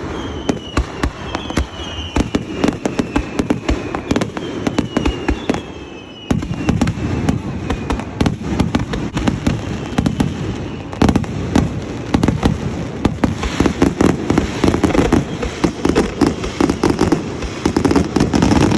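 Fireworks display going off in a dense, continuous barrage of bangs and crackling. Several falling whistles are heard in the first six seconds.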